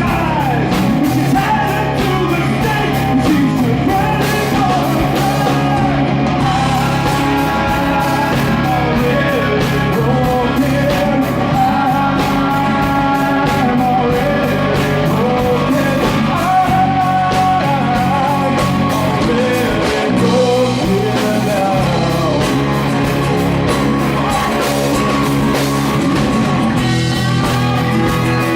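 Live rock band playing loud and steady, with a lead melody wavering in pitch over the full band.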